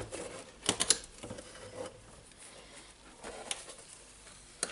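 Scattered light plastic clicks and knocks from the casing of a DeWalt DC011 site radio being handled as its front is lifted off: a few clicks just under a second in, another later, and a sharper click near the end.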